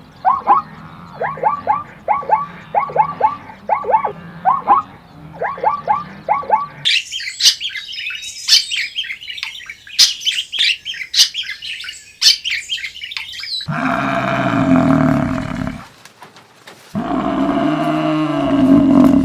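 Animal calls from a string of edited clips: first a fast run of short repeated rising chirps, then about a second after a sudden cut, high bird twittering. Near the end come two long, loud, low calls, the second starting about three seconds in from the end.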